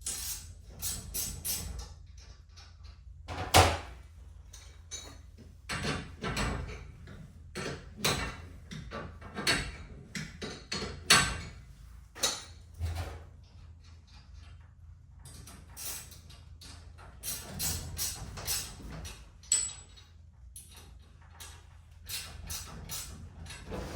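Irregular metal clanks and clinks of steel winding bars and tools on a garage door torsion spring assembly. Among them are a few louder single strikes, one about three and a half seconds in and one about eleven seconds in.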